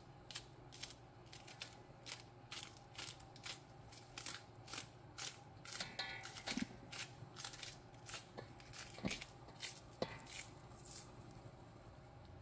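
A knife slicing scallion stalks held in the hand, a steady run of short, crisp cuts about two to three a second, fainter in the last few seconds.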